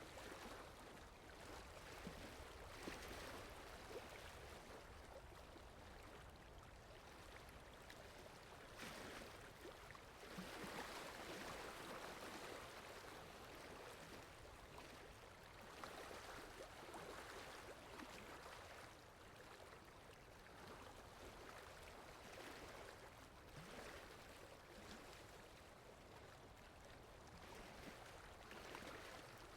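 Faint flowing-water ambience, a steady rushing hiss that swells and eases every few seconds.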